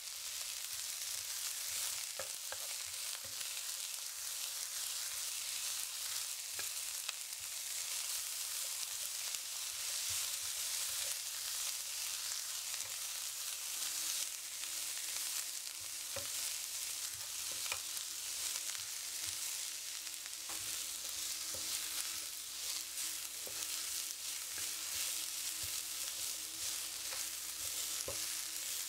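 Sliced shallots, garlic, ginger, lemongrass, salam leaves and red chillies sizzling in hot oil in a nonstick wok, with a steady hiss. A spatula stirs them, clicking and scraping against the pan now and then.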